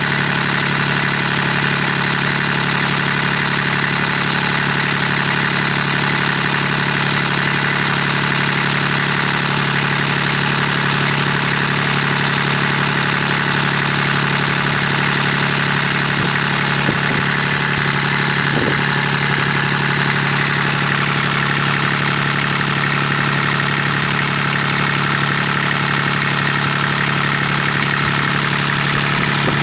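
Kubota D1105 three-cylinder diesel engine running steadily at an even speed.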